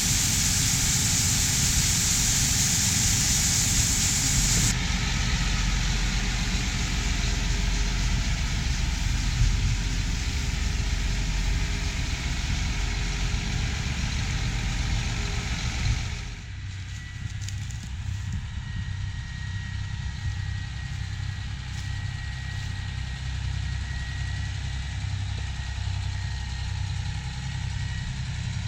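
Diesel engines of large harvest machinery running steadily. A loud hiss stops abruptly about five seconds in, and a little past halfway the sound drops suddenly to a quieter, even low engine hum.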